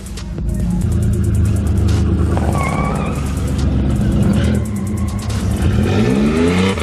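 Car engine running loud and low, then revving with a rising pitch near the end.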